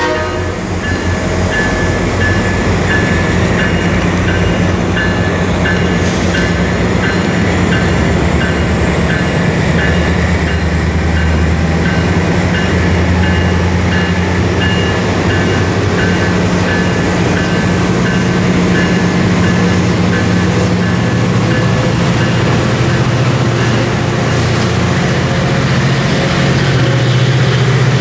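Train running close by: a steady diesel rumble, with a repeating high beeping through much of it and a faint whine that slowly rises in pitch.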